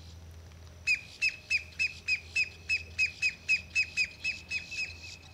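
A bird calling in a fast run of about fifteen short, sharp notes, three to four a second. Each note drops slightly in pitch. The calls begin about a second in and stop shortly before the end.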